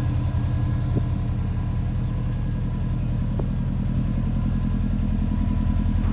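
Subaru Impreza's flat-four boxer engine idling steadily, with an even, pulsing exhaust note.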